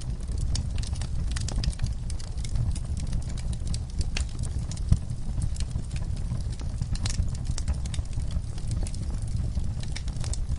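Wood fire in an outdoor firepit crackling, with many sharp irregular pops over a steady low rumble of the flames; one louder pop about halfway through.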